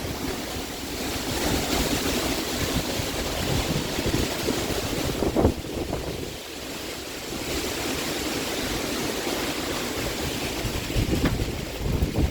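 Strong storm wind rushing in gusts and buffeting the microphone, easing briefly about six seconds in, with a single sharp thump just before the lull.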